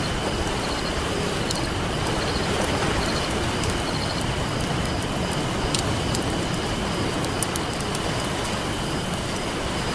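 Steady wash of ocean surf with a campfire crackling over it, scattered sharp pops from the burning wood.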